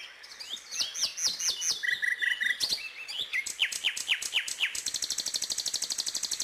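A finch singing a varied song of repeated phrases: runs of falling whistled notes and short chirps, ending in a fast, high trill.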